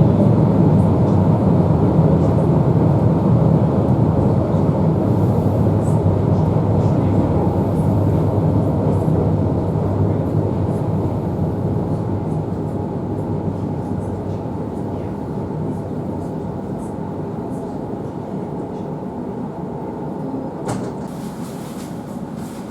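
Running noise inside an electric commuter train: a steady low rumble of wheels and traction motors. It fades gradually as the train slows for a station stop.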